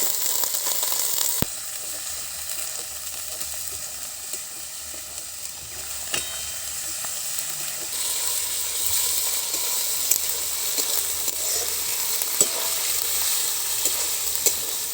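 Chicken livers sizzling as they fry in hot mustard oil with onion and ginger-garlic, stirred in the pan with scattered scraping ticks. A sharp knock comes about a second and a half in, the sizzle dips, then grows louder again from about eight seconds.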